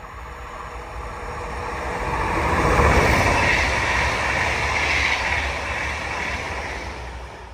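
Train passing by: the rumble and rail noise build to a peak about three seconds in, then fade.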